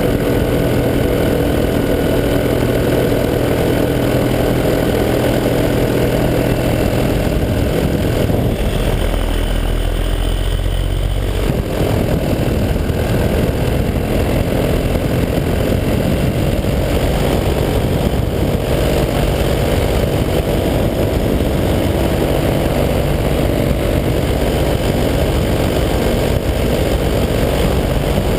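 A 185 cc two-stroke EcXtreme paramotor engine and propeller running steadily in flight. The engine note changes briefly about nine seconds in and settles back about three seconds later.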